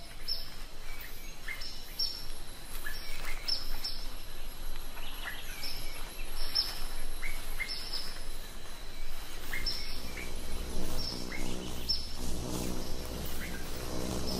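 Small birds chirping repeatedly, short high calls that each sweep quickly downward, about two a second, over forest ambience. A low steady hum comes in about two-thirds of the way through.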